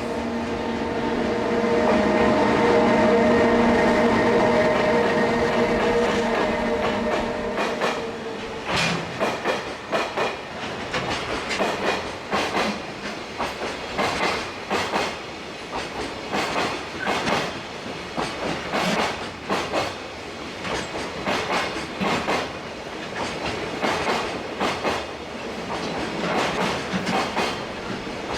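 A long JR Freight container train hauled by an EH500 electric locomotive passing close by. For the first several seconds a steady hum of several tones swells and fades. From about eight seconds in, the container wagons' wheels clack over rail joints in an irregular rhythm.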